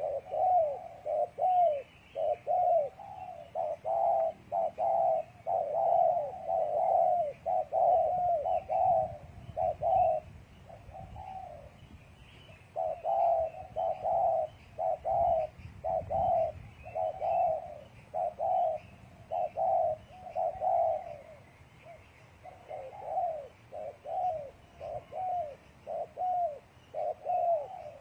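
Spotted doves cooing over and over, a long run of short coos broken by a few brief pauses. Small birds chirp faintly in the background.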